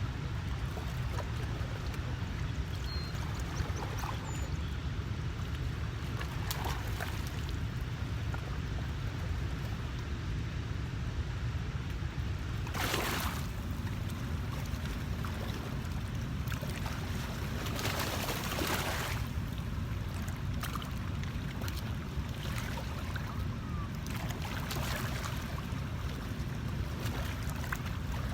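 Steady low rumble under an even hiss of moving water, broken three times by a brief louder rush of noise.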